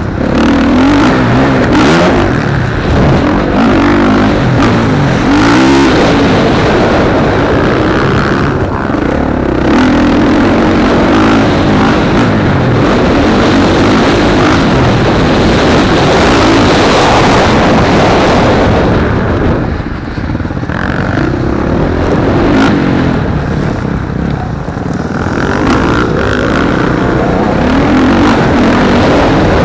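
Motocross bike engines racing, revving up and falling back again and again as riders work through the track, with a brief drop in level about two-thirds of the way in.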